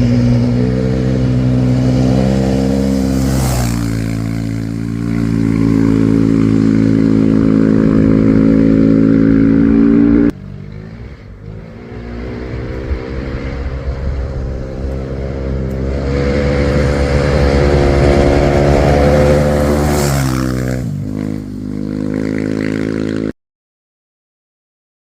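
Rally raid competition vehicle's engine running hard at high, fairly steady revs. The sound drops abruptly about ten seconds in and builds up again. About twenty seconds in the engine note falls away, and the sound cuts off shortly before the end.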